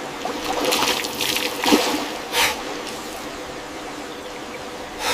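Rushing, splashing water, with louder splashes about a second in, near two and two and a half seconds, and again near the end.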